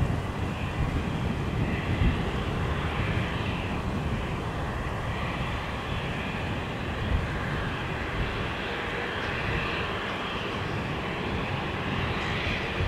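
Embraer Legacy 650 business jet's twin turbofan engines running: a steady jet noise with a low rumble beneath and a hiss up high.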